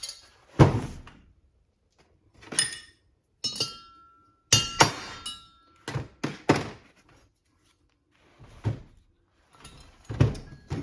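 Hammer striking a punch to drive an outer bearing race out of a Toyota 8-inch differential housing: about ten separate metal blows at an uneven pace, one about halfway through leaving a short ring.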